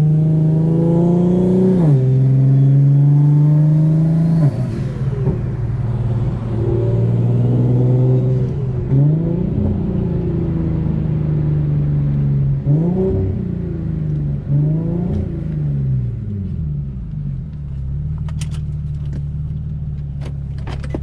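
Car engine accelerating through the gears, its pitch climbing and then dropping sharply at each upshift, then slowing with a few quick rev blips on downshifts before settling into a steady idle. A few sharp clicks come near the end.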